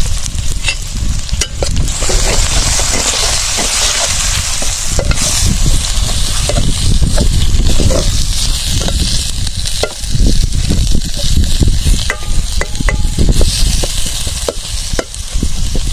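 Vegetables frying in hot oil in a pan, with a loud sizzle that swells about two seconds in, and a spoon scraping and knocking against the pan as it stirs. A low rumble runs underneath.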